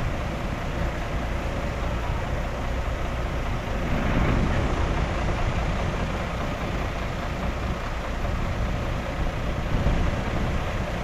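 Heavy diesel engine of earth-moving machinery running steadily, swelling briefly about four seconds in.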